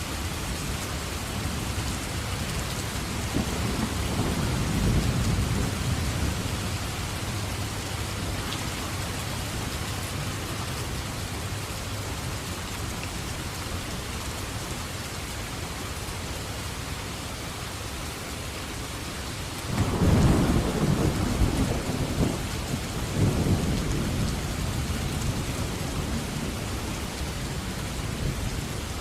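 Steady heavy rain hissing, with rolls of thunder: a low rumble swells and fades a few seconds in, and a louder crack of thunder breaks about two-thirds of the way through, rumbling on for several seconds.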